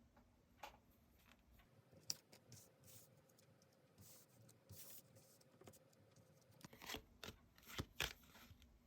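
Faint handling of tarot cards: scattered scrapes, swishes and small clicks as cards slide and are laid down, with a few sharper clicks between seven and eight seconds in.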